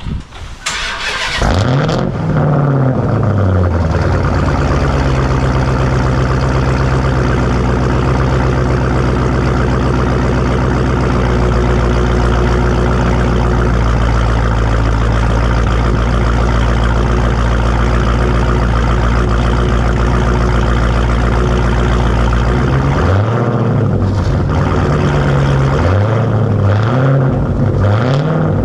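Dodge Challenger Hellcat's supercharged 6.2-litre Hemi V8, with mid-pipes and mufflers deleted, cold-starting about a second in with a flare of revs, then settling into a steady, loud high idle. Near the end it is blipped several times, revs rising and falling.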